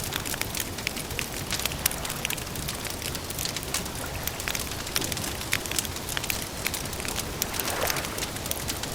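Campfire crackling: a steady stream of sharp pops and snaps over a soft, even hiss.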